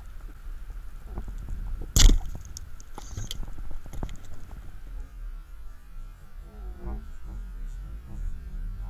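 Underwater ambience picked up by a diver's camera: a low rumble with scattered clicks and crackles, and one sharp knock about two seconds in.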